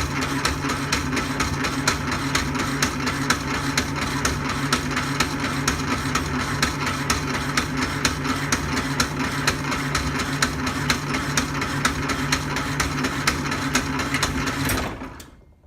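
Vintage Jefferson power hacksaw running its first cut through 1-inch steel tube: a steady motor hum with an even clicking at several beats a second. It shuts down and goes quiet about a second before the end.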